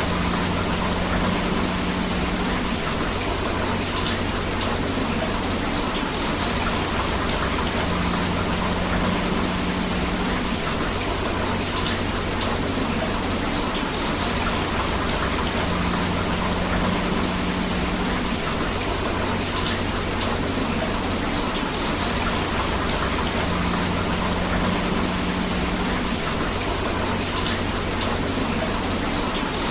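Steady rain together with rushing river water, an even hiss with no breaks. A faint low hum recurs about every eight seconds, as from a looped recording.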